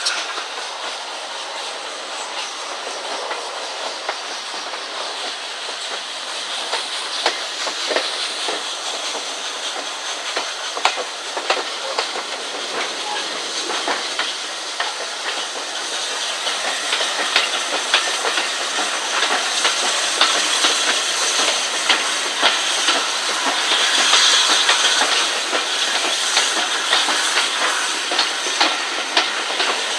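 Railway coach running at speed, heard from an open window: wind rush and the rumble of the track, with wheels clicking over rail joints. It grows louder in the second half.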